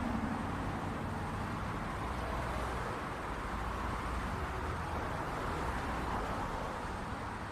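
City traffic: a steady wash of passing cars and road noise with a low engine rumble.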